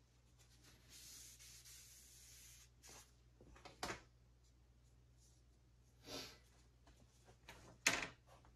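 Quiet handling noises: a soft rubbing for a second or two, then three separate sharp knocks or clacks, the loudest near the end.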